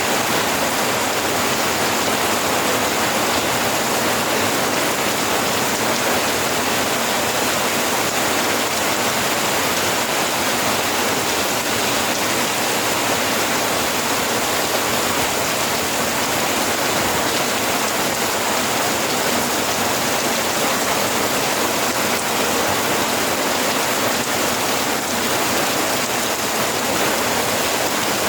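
Steady, heavy rain: a dense, even hiss of rainfall with no thunder or distinct drops standing out.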